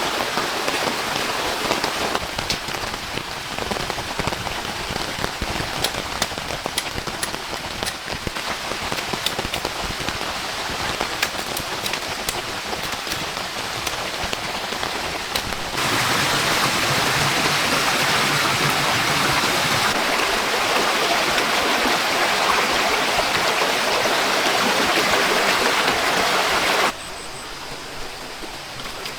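Heavy rain falling steadily, with scattered sharper drop impacts. It grows abruptly louder about halfway through and drops back just as suddenly near the end.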